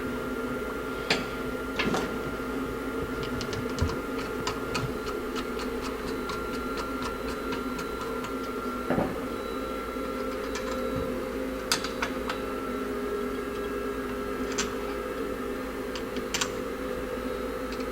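Light metallic clicks and taps of a screwdriver and small carburetor parts as the base screws of a single-barrel carburetor are fitted and snugged down, scattered irregularly over a steady background hum.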